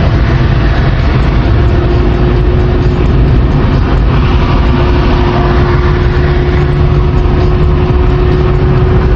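Kawasaki ZX25R's 250 cc inline-four engine running at a steady highway cruise, its pitch holding level throughout, under a heavy steady rush of noise.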